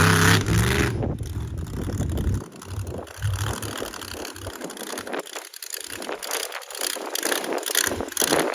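Monster truck engine revving loudly with a rising pitch, which falls away after about a second, leaving a quieter noisy crackle.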